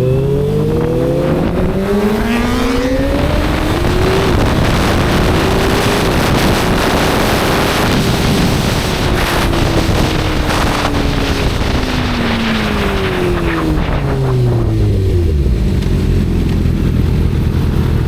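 Inline-four sportbike engine climbing smoothly in revs over the first several seconds, holding high, then winding down gradually for about ten seconds and settling into a steady idle near the end, with rushing wind noise over the top.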